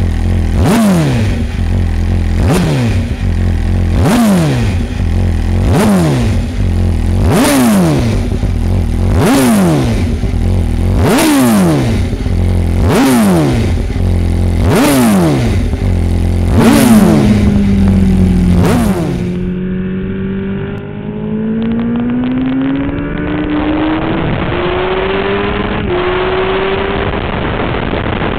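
MV Agusta F4 R312 inline-four engine through a titanium Evoluzione Type-C exhaust, blipped repeatedly: about nine sharp revs, each climbing quickly and dropping back, roughly every two seconds. From about two-thirds of the way in, a longer engine note takes over, dipping and then climbing slowly in pitch.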